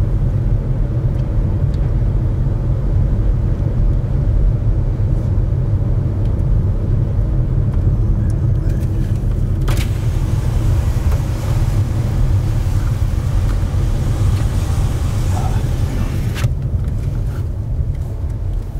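A vehicle's engine running with a steady low rumble, the kind heard from a chase car while the storm is filmed. A hiss swells in the middle, and two sharp clicks come about ten and sixteen seconds in.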